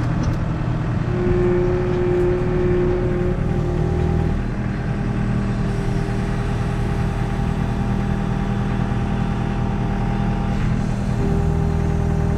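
A vehicle engine running steadily. Its pitch shifts about four seconds in and again near the end.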